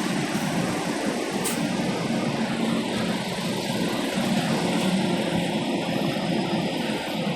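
Honda Shuttle's 1.5-litre four-cylinder petrol engine idling steadily.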